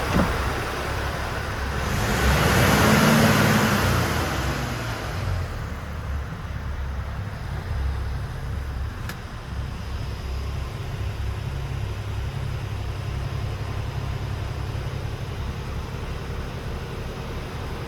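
Iveco Stralis Hi-Way 460's diesel engine idling steadily, with a brief swell in engine note and hiss about two to five seconds in. A single sharp click comes near the middle.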